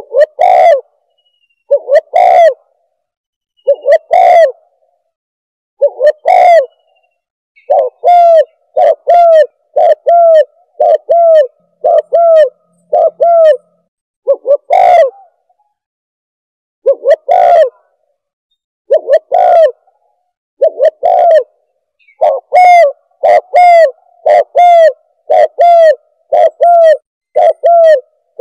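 Spotted dove (tekukur) cooing, clean and close on a silent background, as used in a bird-caller lure. The coos come in short groups separated by pauses, then about halfway through settle into a quicker run of repeated single coos.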